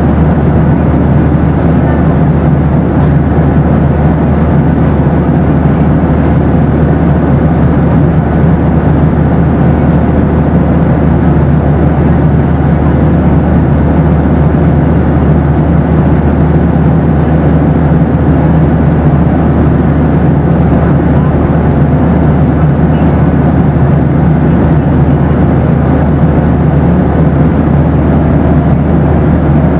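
Boeing 737 jet airliner noise: a steady, even rush of engine and airflow noise, heaviest in the low end, with a few faint steady tones over it and no change throughout.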